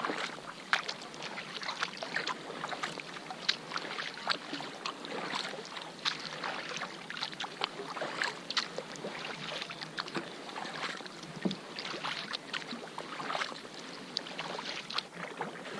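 Kayak moving through calm water: a steady wash with many irregular small splashes and drips against the hull.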